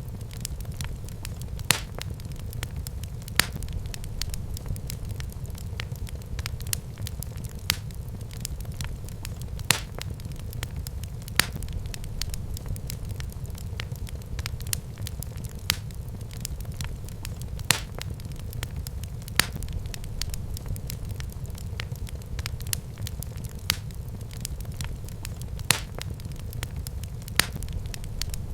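Wood fire in a fireplace crackling: a steady low rumble with scattered small crackles and a louder sharp pop every couple of seconds.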